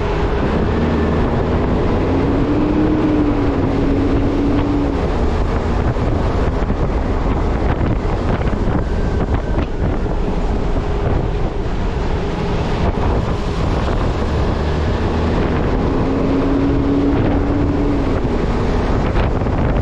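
Heavy wind noise on a camera microphone strapped to the front of a moving refuse truck, with the truck's engine droning underneath; the drone's pitch rises and settles twice, early on and again near the end.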